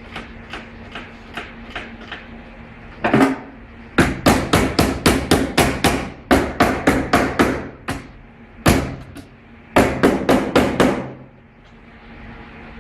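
Hammer blows during repair work on a GAZelle van. They start as light taps, then turn into a fast run of heavy strikes, about four a second, with a couple more bursts before stopping.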